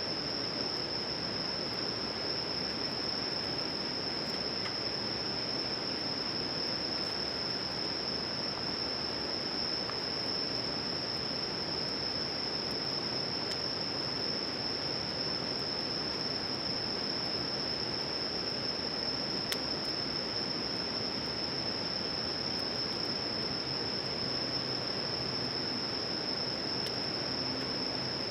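Insects, crickets by their sound, chirring in one unbroken high-pitched drone, over a steady background hiss. A faint low hum comes in near the end.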